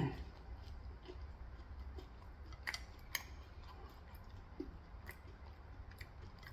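Quiet eating: a handful of soft, sharp mouth clicks and smacks from chewing, spread over a few seconds, above a low steady hum.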